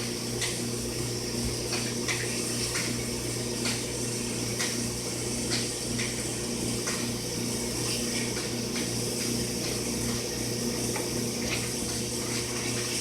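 Eyeglass and jewelry cleaning machine running with water in it: a steady electric hum with a faint regular pulsing and occasional light clicks.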